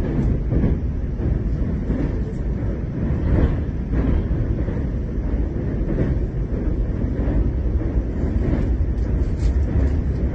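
Train running at speed, heard from inside the carriage: a steady low rumble of wheels on rails as it crosses a steel truss bridge, with faint clicks now and then.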